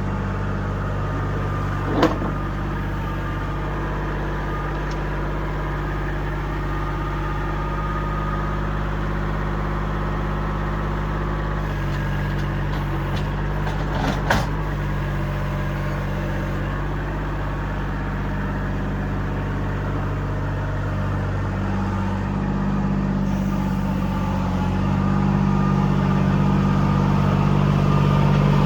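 Kubota L2501 compact tractor's three-cylinder diesel engine running steadily while loading, with two sharp knocks about 2 seconds and 14 seconds in. Near the end the engine note changes and gets louder as it picks up.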